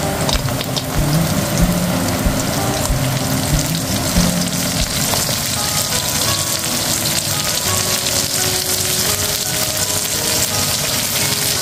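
Carrots, onion and garlic sizzling steadily in a hot oiled frying pan, with a few soft thuds in the first few seconds as the carrots go in.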